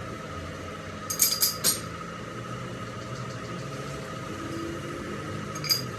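Workshop machinery running with a steady hum. Sharp metallic clinks of metal striking metal come about a second in, four of them in quick succession, and two more come near the end.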